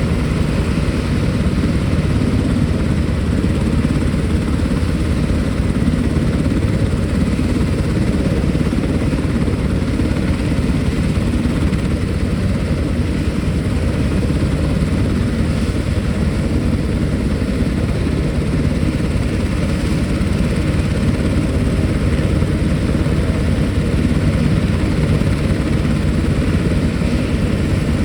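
Military helicopter running loud and steady, with constant rotor and turbine noise.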